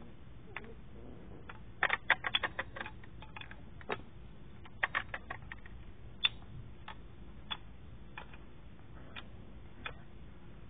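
Irregular sharp clicks and taps: a quick flurry about two seconds in, another about five seconds in, then single clicks every second or so.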